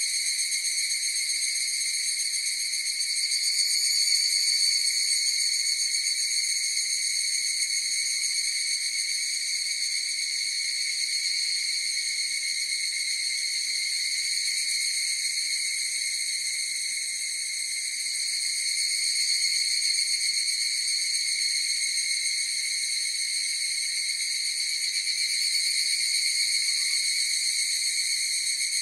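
Chorus of higurashi (evening cicadas) calling without a break: a continuous, high-pitched trilling that swells and eases slowly several times.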